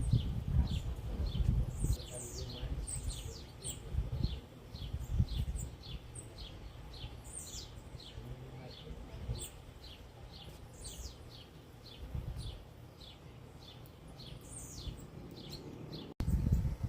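Small birds chirping: a steady run of short, high chirps, each dropping in pitch, about two a second, over a low rumble that is loudest in the first few seconds.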